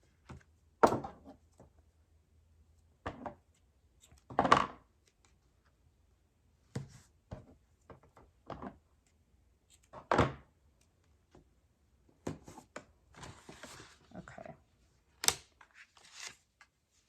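Cardstock pieces being handled and set down on a work table: irregular taps and knocks, about ten in all, the loudest about a second in and again a few seconds later, with a brief paper rustle near the end.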